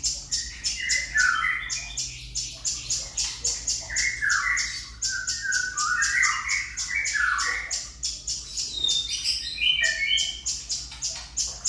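Cungkok bird calling vigorously: a fast string of sharp, high repeated notes, about five a second, mixed with squawking, chirpy phrases that are busiest in the middle.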